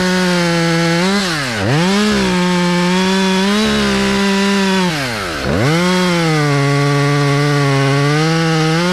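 Chainsaw run at full throttle cutting white oak. Its pitch sags as it bites into the wood, and the throttle is let off briefly twice, about a second and a half in and about five and a half seconds in.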